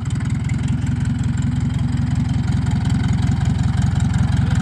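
Fendt tractor's diesel engine running steadily with a fast, even beat, growing slightly louder.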